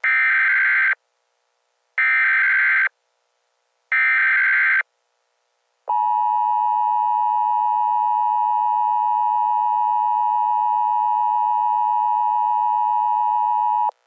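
Emergency Alert System signal: three short warbling SAME data header bursts, each about a second long, then the steady two-tone EAS attention signal held for about eight seconds before it cuts off suddenly. This is the standard start of an emergency alert broadcast, right before the spoken message.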